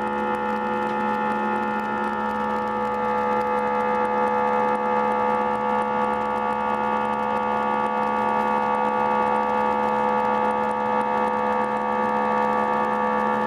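Airbus A319 jet engines running steadily: an even drone with several fixed, level tones.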